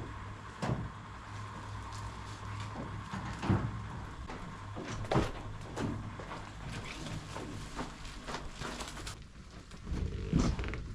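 Scattered knocks and thumps of gear being handled, about five in all, the last a double thump near the end, over a steady low hum.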